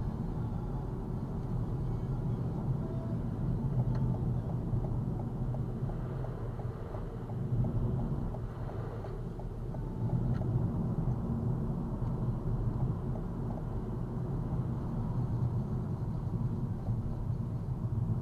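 A car driving along, with a steady low rumble of road and engine noise that swells slightly now and then.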